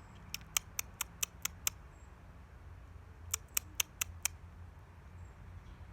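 Bird pecking at seed in a feeder: two quick runs of sharp taps, about five or six each, with a pause between.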